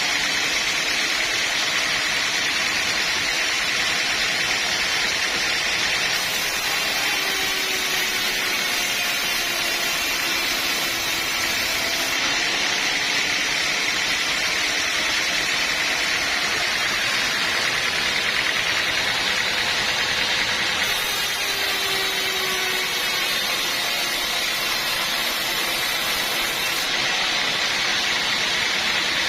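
Sawmill machinery running steadily, with a faint pitch that dips and recovers a few times.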